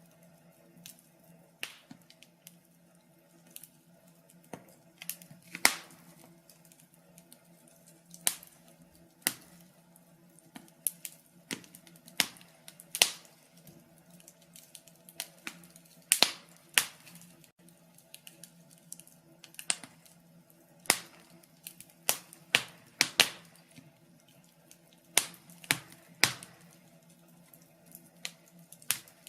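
Wood fire in a fireplace crackling, with irregular sharp pops and snaps every second or so, some much louder than others, over a faint steady low hum.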